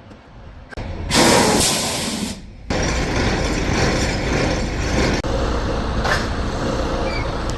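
A loud hiss of compressed air from a semi truck's air brake system, lasting about a second, while a trailer is being uncoupled. The truck's diesel engine then runs steadily with a low rumble.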